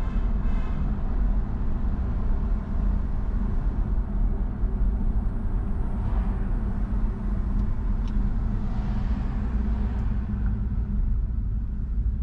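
Car driving: a steady low rumble of engine and road noise, with two swells of passing traffic about halfway through and again a few seconds later.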